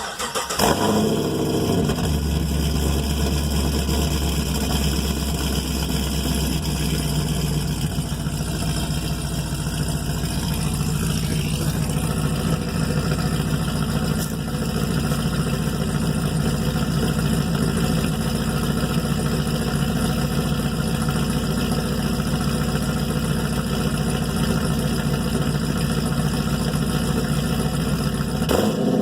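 Pontiac G8 GT V8 with long-tube headers and a Mach Shorty cat-back muffler starting up, then running at a fast idle that settles lower about seven seconds in. The exhaust is excessively loud.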